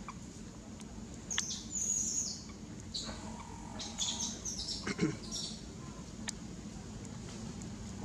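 Birds chirping: a run of high-pitched chirps and short sweeping calls between about one and five and a half seconds in, over a faint steady low hum.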